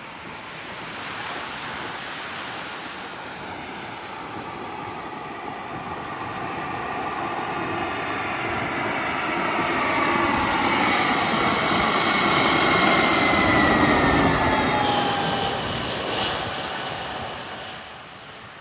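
Jet airliner passing low overhead. Its engine roar builds to a peak about three-quarters of the way through, with a whine that falls in pitch as it goes by, then fades away.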